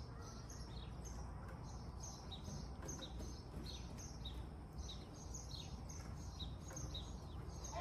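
Small birds chirping: a steady run of short, high chirps, two or three a second, over a low steady rumble.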